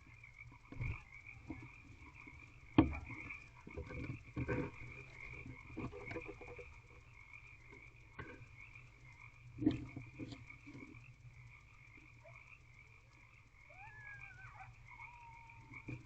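Steady trilling frog chorus outside the nest box, with scuffs, scratches and knocks from a barn owl shifting and settling onto her eggs inside the wooden box; the loudest is a sharp knock about three seconds in, with another thump about ten seconds in.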